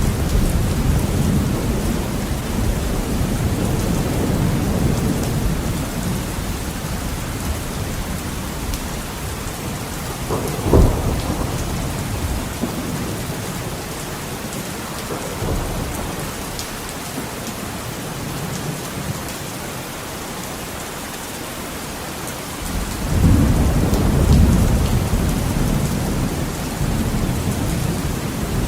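Heavy rain on a window with a thunderstorm: the steady hiss of rain throughout, a low thunder rumble fading over the first few seconds, a sharp thunderclap about eleven seconds in, and another rumble building near the end.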